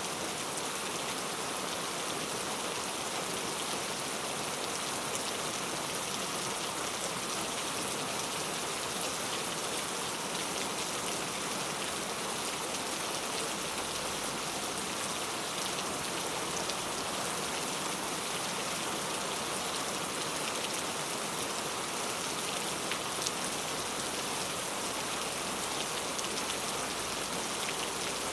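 Heavy rain falling steadily on hard urban surfaces, a constant hiss with scattered drop ticks.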